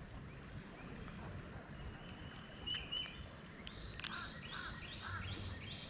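A bird calling a quick series of about five short high notes in the second half, with a couple of faint chirps just before, over faint outdoor ambience.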